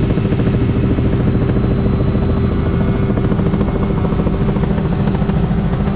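Robinson R66 helicopter in flight, heard from inside the cabin: a steady, rapid main-rotor beat with the Rolls-Royce RR300 turboshaft's thin, high, steady whine over it.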